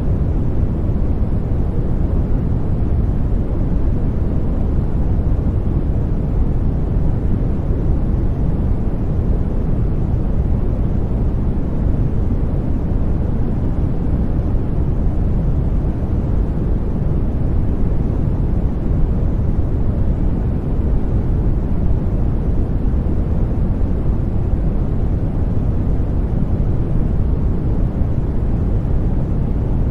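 Continuous white noise for baby sleep, steady and even, with most of its weight in the low end so it sounds deep, like a soft rumble.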